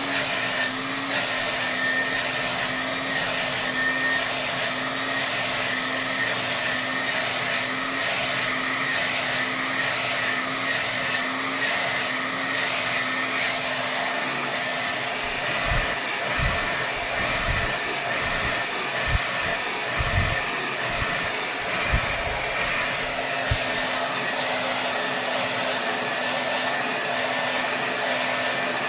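Hair dryer blowing steadily at full power, a continuous rush of air with a low hum. In the middle its hum briefly drops out and several short low thumps are heard.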